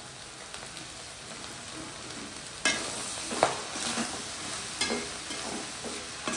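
Goat intestine and blood fry sizzling in a metal kadai. From about three seconds in, a metal spatula stirs it with several irregular scrapes and clacks against the pan.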